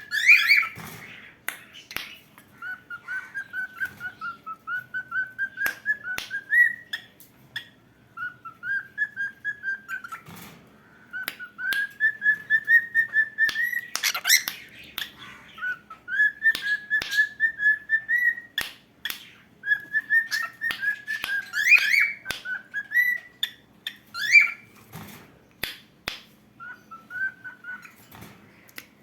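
Cockatiel whistling its song: phrases of quick repeated whistled notes, each a few seconds long, holding near one pitch and rising at the end, with short pauses between phrases and sharp clicks throughout.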